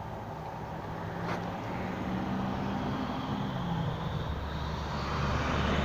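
A road vehicle approaching, its engine and tyre noise growing steadily louder, with a deep rumble coming in about four seconds in.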